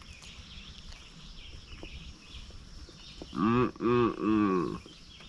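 A sheep bleating: one loud wavering call broken into three pulses, about three and a half seconds in, over faint birdsong.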